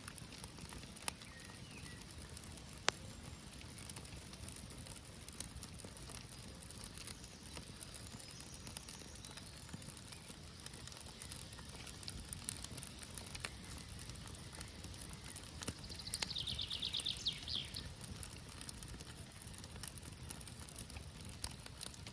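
Small birch-bark campfire crackling, with scattered sharp pops, one loud pop about 3 seconds in. A bird gives a short rapid trill about three quarters of the way through.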